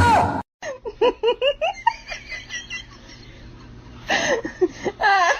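Laughter in quick repeated bursts that rise and fall in pitch, growing louder about four seconds in, after a short loud burst of sound at the very start.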